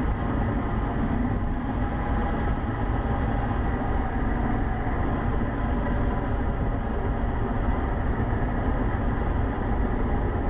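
Cessna 150's Continental O-200 engine idling during the landing rollout, heard from inside the cockpit as a steady, even rumble.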